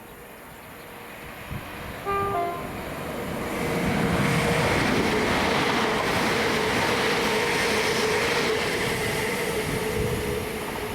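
A train sounds its two-tone horn briefly about two seconds in, then passes at speed, loud for several seconds as it goes by.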